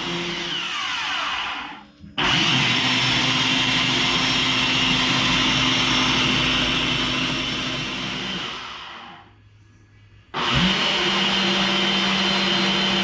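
Kitchen blender switched on and off in bursts. It winds down and stops just under two seconds in, starts again abruptly, and runs steadily for about six seconds. Then it winds down and, after about a second's pause, starts up again.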